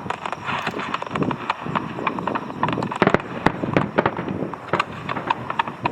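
Fireworks crackling in a dense run of small sharp pops, with two louder bangs about three seconds in.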